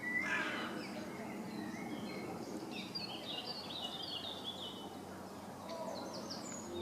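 Small birds chirping in short calls over a steady outdoor background hiss, with a run of chirps in the middle and a few higher ones near the end.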